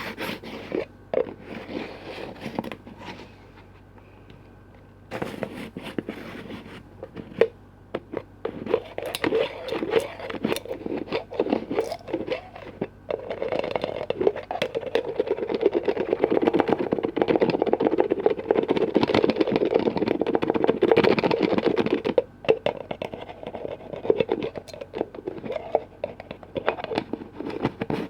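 Close-miked ASMR tapping and scratching on container lids: scattered taps and scrapes, then about nine seconds of fast, continuous scratching in the middle, dropping back to lighter taps near the end.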